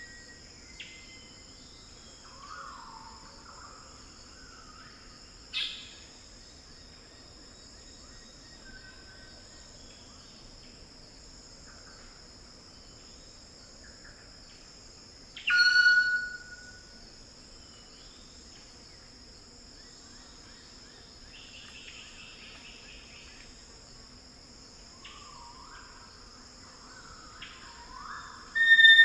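Wild Eclectus parrots calling over a steady, high-pitched drone of rainforest insects: a short loud call about five seconds in, the loudest call, lasting about a second, halfway through, and another loud call right at the end. Fainter bird calls sliding in pitch come and go in between.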